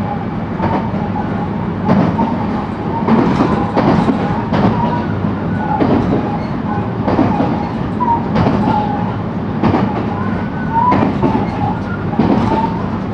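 Interior running sound of a JR West 223-2000 series electric train car at speed: a steady low rumble with irregular knocks from the rail joints about once a second. Faint, brief wavering whistles come and go above the rumble.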